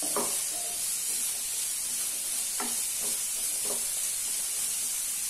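Bottle gourd cubes sizzling in oil in a nonstick frying pan, a steady hiss as they sauté. Four short scrapes and knocks come from a wooden spatula stirring them.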